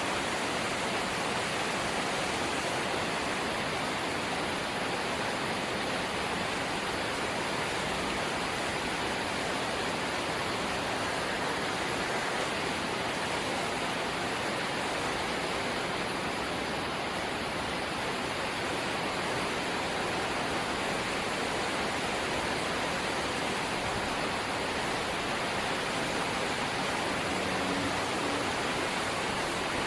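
Light rain falling steadily: an even, unbroken hiss with no separate drops standing out.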